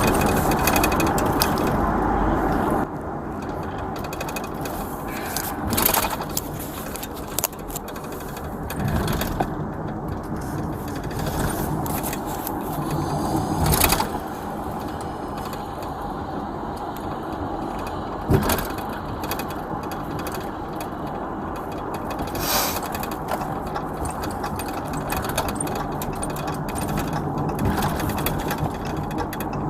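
Inside a moving car's cabin: a steady rumble of engine and road noise, with a few sharp clicks and knocks.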